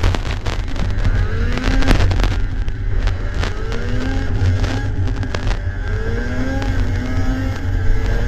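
Two-stroke snowmobile engine revving up and down, its pitch rising and falling several times over a heavy low rumble.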